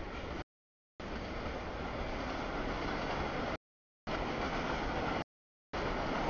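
CSX freight train rolling past a grade crossing: a steady rumble and rush from the moving cars. The sound cuts out to dead silence several times and comes straight back.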